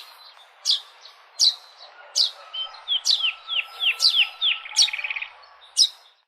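Songbirds calling. One bird repeats a sharp, high, falling chirp about once every three-quarters of a second, while another gives a quick run of falling notes that ends in a short trill about halfway through. The sound cuts off just before the end.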